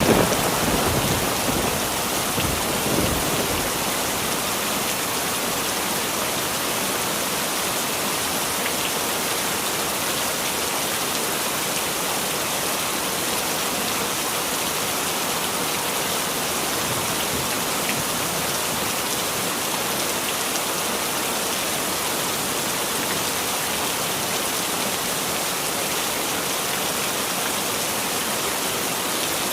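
Heavy rain falling steadily, an even hiss. The tail of a thunderclap fades out in the first second, and a fainter rumble of thunder comes about three seconds in.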